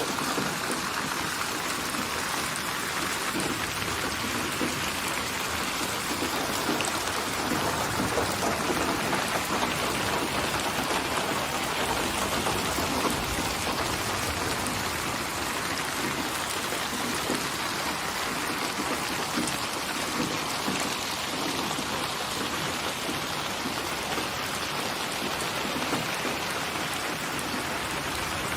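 Steady rainfall, an even hiss of rain with no clear thunderclaps.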